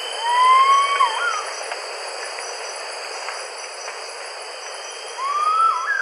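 A bird's whistled call, given twice about five seconds apart: each is a slurred rising whistle ending in a quick wavering twist. Behind it runs a steady high chorus of insects, one of them pulsing evenly.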